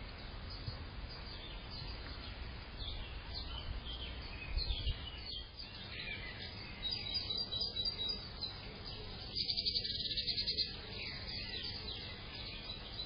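Small garden birds chirping and calling repeatedly, with a fast trill lasting about a second, two-thirds of the way through.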